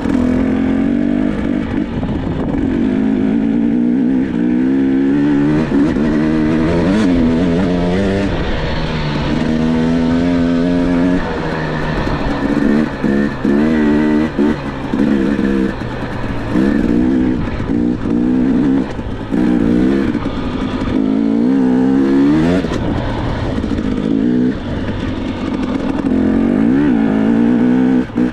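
Dirt bike engine being ridden, its pitch rising and falling again and again as the throttle is opened and closed, with short on-off throttle bursts through the second half.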